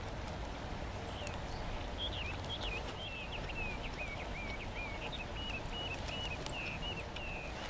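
An animal calling: a run of short, high, chirping notes that starts about a second in and settles into an even, rapid repetition near the end.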